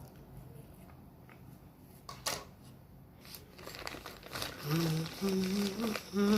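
Crinkling, with a sharp click a couple of seconds in. In the last couple of seconds a man's low voice hums a few short held notes without words.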